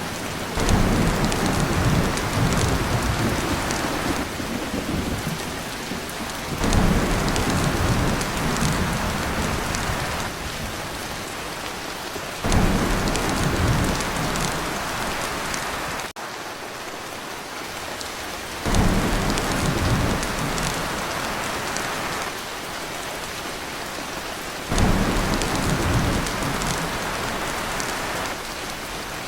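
Heavy rain pouring on a tin roof, with low thunder rumbles that set in suddenly about every six seconds and fade away.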